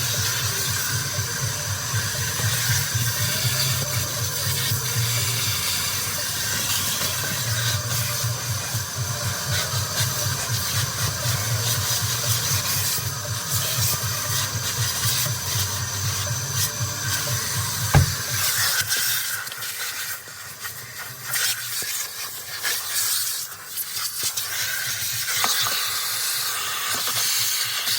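Car vacuum running, a steady airy hiss of suction over a low motor hum. About two-thirds of the way through a sharp click comes, the low hum stops, and the hiss goes on unevenly.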